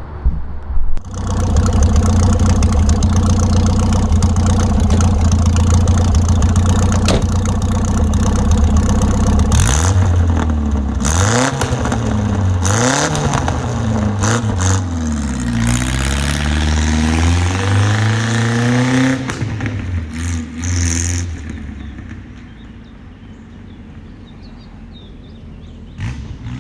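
A car's four-cylinder engine, a 1982 Datsun 210 wagon running again after its no-start, no-charge repair, catches about a second in and runs loudly. From about 10 s in it is revved up and down several times, then it drops back to a much quieter sound for the last few seconds.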